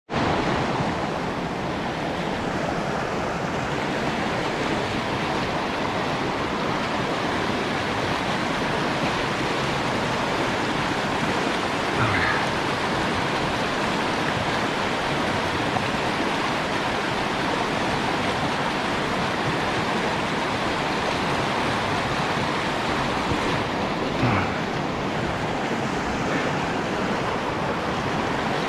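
Steady rushing of a small river's flowing water, even and unbroken, with a couple of brief faint knocks.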